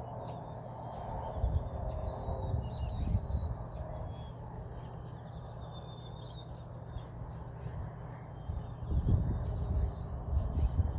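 Small birds chirping again and again in short high notes, over a steady low hum, with bursts of low rumble, the loudest a little after nine seconds.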